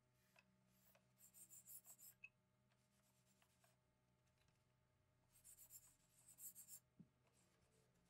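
Two short runs of quick, scratchy rubbing strokes made by hand, with a few light clicks between them.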